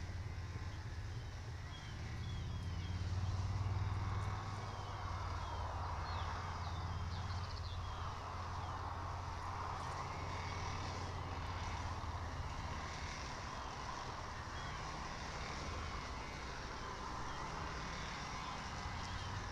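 Outdoor ambience with a steady low hum, probably distant traffic, and small birds chirping now and then in short, high notes.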